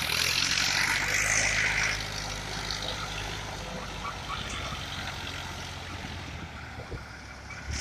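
Tractor engine running steadily with a low, even hum. A loud rushing noise lies over it for about the first two seconds, then eases off.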